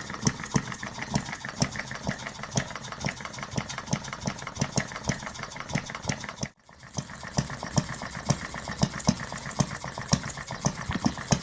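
Small 1/8 scale model Reid two-stroke engine running on propane with a quick, even stream of exhaust pops, cutting out for a moment about six and a half seconds in. It is loaded up with oil from a cylinder oiler left on, puffing out oil.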